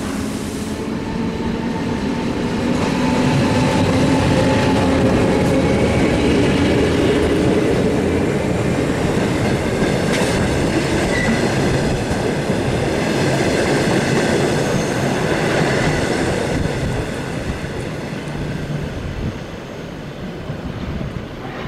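BLS NPZ electric regional train running along the platform: motor whine over wheel rumble and clatter on the rails, loudest as the coaches pass close by, easing off near the end.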